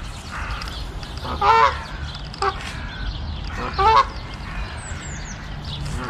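Three short bird calls: one about a second and a half in, a brief one a second later, and another near four seconds, over a steady low background rumble.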